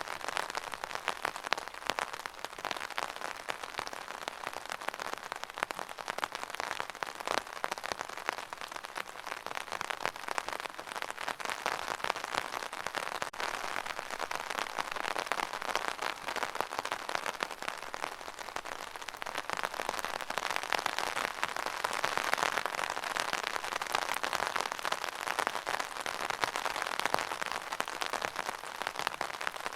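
Steady rain falling, a dense patter of countless separate drops hitting a surface; it grows a little heavier in the second half.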